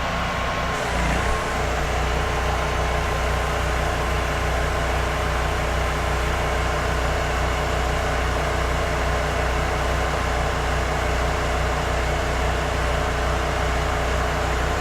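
Generator engine running steadily, powering the soft-wash spray pump, over an even hiss of the sprayer; the engine note shifts and settles about a second in.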